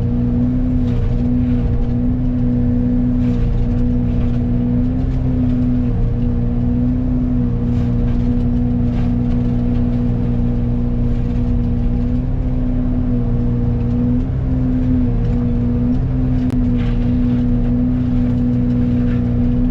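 Excavator engine running at full throttle while driving a Fecon forestry mulcher head, a loud steady drone with a strong humming tone from the spinning mulcher. The tone sags briefly a few times as the head takes load in the brush.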